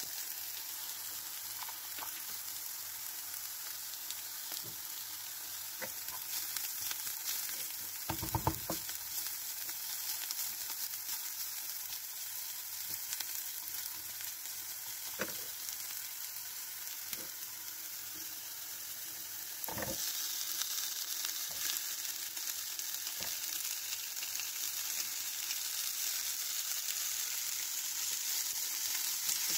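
Diced onions sizzling and frying in oil in a nonstick skillet, stirred with a silicone spatula, with occasional knocks as it strikes the pan. The sizzle grows louder about two-thirds of the way through.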